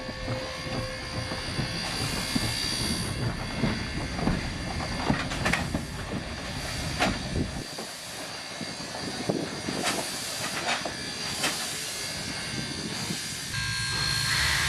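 Steam-hauled passenger train rolling past: wheels clicking irregularly over the rail joints over a steady rumble, with some hiss of steam.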